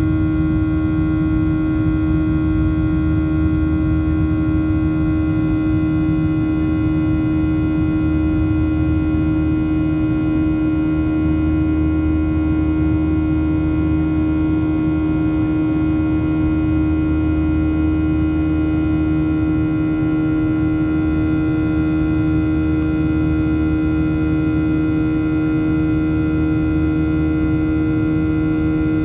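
Steady in-flight cabin drone of a Boeing 737-800, heard from inside the cabin: its CFM56 engines and the airflow make an even rumble with one strong steady hum tone and several fainter tones above it.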